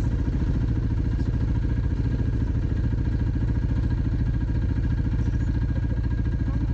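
Dirt bike engine running steadily at an even speed, with a rapid, regular firing beat.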